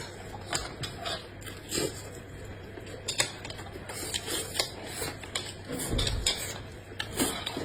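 Eating sounds: irregular sharp clicks and clinks of utensils against dishes, mixed with chewing. There is a dull thump about six seconds in.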